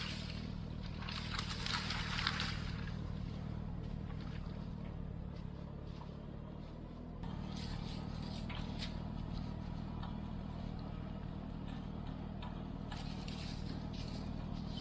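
Tractor engine running steadily at low speed, its note shifting slightly about seven seconds in, with scraping and clinking noises over it.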